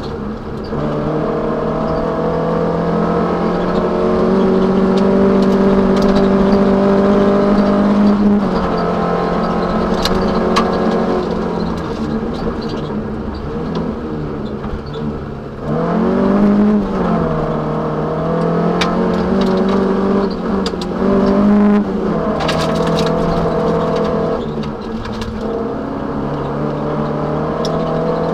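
Toyota Celica 1600 rally car's four-cylinder engine heard from inside the cabin, pulling hard in long stretches at high revs. Its note drops and climbs again about four times at gear changes and lifts. Scattered sharp ticks and knocks come from the car body.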